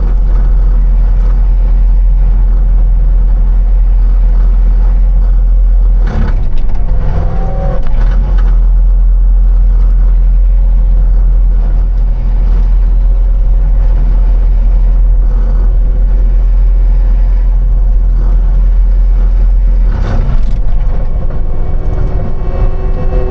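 A vehicle engine running steadily, with a brief change in its sound about six seconds in and again about twenty seconds in.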